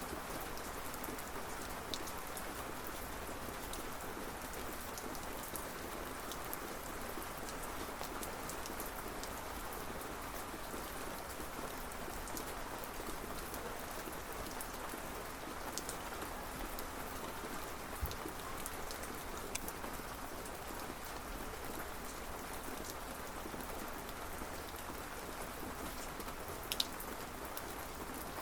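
Steady rain falling on a surface, an even hiss with scattered louder drops ticking here and there.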